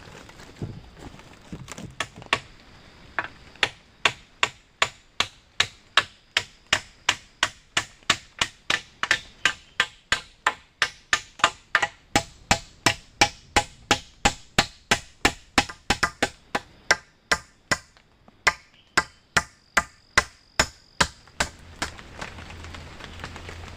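A tool striking wood in a long, steady series of chopping blows, about two or three a second, which stops near the end.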